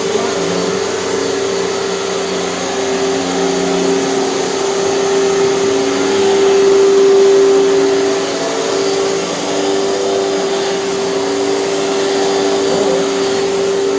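Hoover canister vacuum cleaner running with a steady motor hum and airflow rush, swelling a little louder about halfway through.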